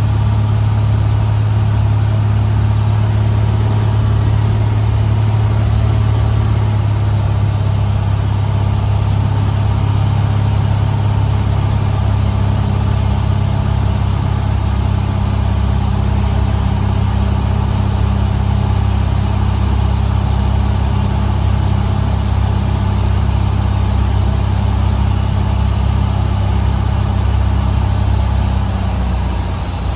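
Cessna 150's four-cylinder Continental O-200 engine and propeller droning steadily in flight. The engine note dips slightly near the end as power eases back.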